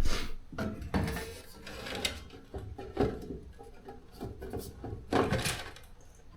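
Cover of a garage door opener being handled and fitted back into place: irregular clicks, knocks and scraping, with a few louder knocks.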